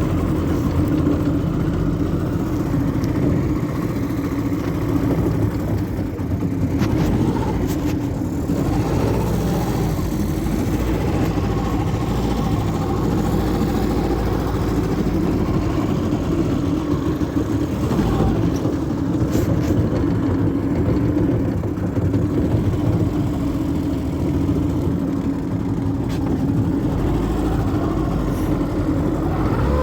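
Vikhr two-stroke, two-cylinder outboard motor running at a steady speed on test.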